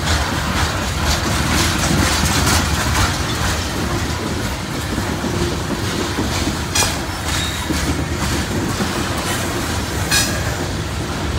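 Coal hopper cars of a freight train rolling past close by: a steady rumble of steel wheels with clickety-clack over the rail joints, and two sharper clanks about seven and ten seconds in.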